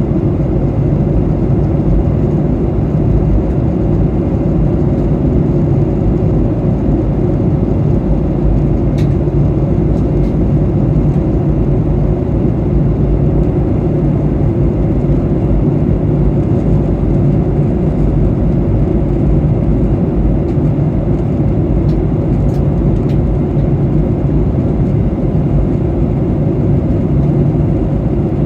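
Steady low cabin roar inside a Boeing 737-800 in flight, the sound of its jet engines and the airflow over the fuselage. A few faint clicks are heard about a third of the way in and again past the middle.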